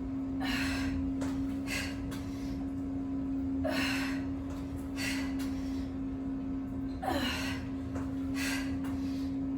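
A woman breathing hard from exertion during push-ups: six forceful breaths spaced about a second and a half apart, some ending in a short falling gasp. A steady low hum runs underneath.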